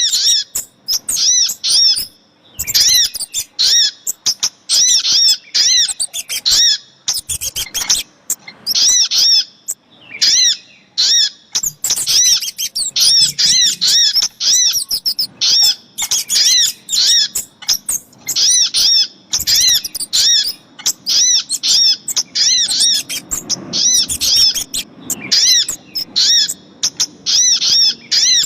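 Bird-lure recording of small-bird calls, the sogok ontong (little spiderhunter) and kemade mixed together: rapid runs of short, high, arched chirps repeated several times a second, in bursts broken by brief pauses.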